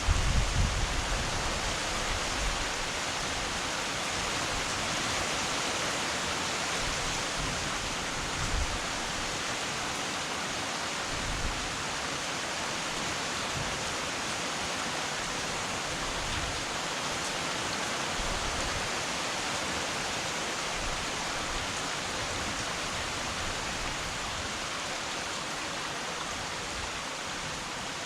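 Heavy rain falling in a steady, dense hiss, with a few brief low rumbles in the first second.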